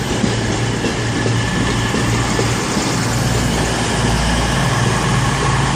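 CrossCountry Class 221 Super Voyager diesel multiple unit with its underfloor diesel engines running, a steady low engine drone.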